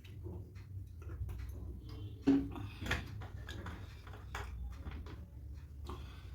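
Close-up eating sounds: poori with chana masala and potato curry being chewed and handled, with many small scattered clicks and a louder knock a little over two seconds in. A steady low hum runs underneath.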